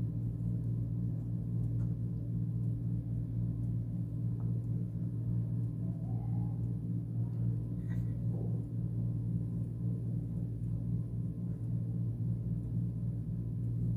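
A steady low hum, with a faint click about eight seconds in.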